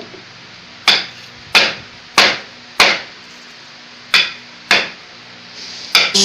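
Seven sharp hammer blows on wood, struck at an uneven pace roughly half a second to a second apart, each ringing briefly.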